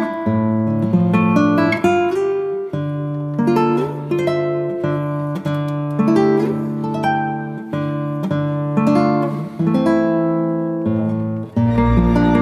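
Background music: acoustic guitar picking a melody of plucked notes, giving way near the end to a sustained ambient pad with a deep low tone.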